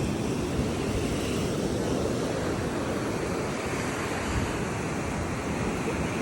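Ocean surf washing on the shore, a steady rush of waves, with wind buffeting the microphone.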